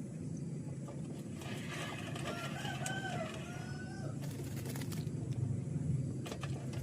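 A bird calls once, a drawn-out wavering call of about two seconds, over a steady low rumble, with a few faint clicks afterwards.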